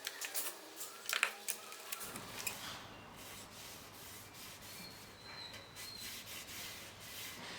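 A few light clicks and knocks, then steady rubbing from about two seconds in.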